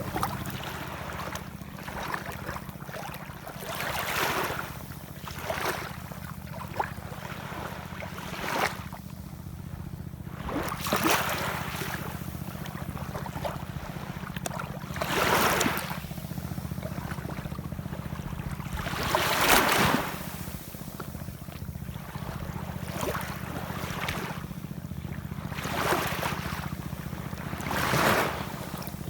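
Ocean waves breaking and washing in, a surge of surf every few seconds over a steady low rumble, the loudest surge about two-thirds of the way through.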